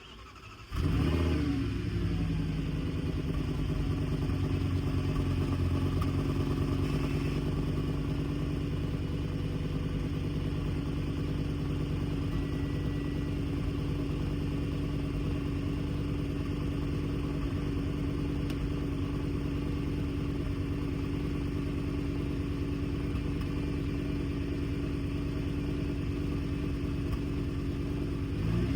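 2008 Audi S8's 5.2-litre V10 cold-starting at the exhaust: the starter cranks briefly, and the engine catches under a second in with a flare that drops back within about a second. It then settles into a steady cold idle.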